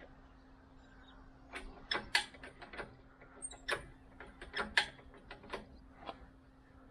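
Irregular sharp clicks and knocks, about a dozen over some four seconds, starting about a second and a half in, from hand work on metal parts, over a faint steady low hum.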